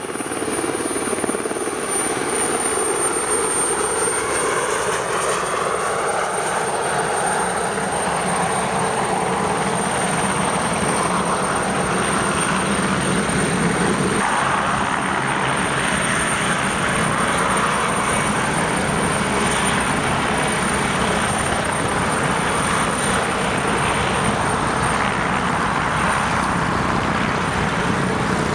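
Sud Aviation SE 313 B Alouette II helicopter's Turbomeca Artouste turboshaft and rotors running: a steady, high, thin turbine whine over a constant, loud rush of rotor and engine noise.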